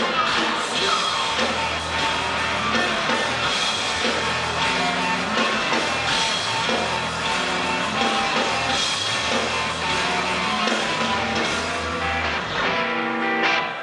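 A heavy rock band playing loud live music with drum kit, bass and electric guitar. Near the end the deep bass and drums drop away, leaving the guitar.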